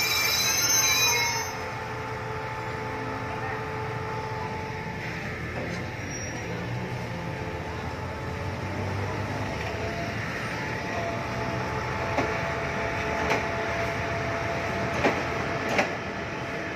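Passenger train coaches rolling past along the track. A high wheel squeal stops about a second in and gives way to a steady rumble. A few sharp clacks come near the end.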